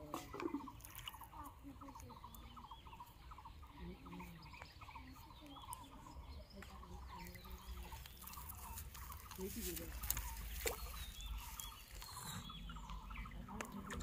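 Birds calling in quick series of short chirping notes, with a few sharp clicks.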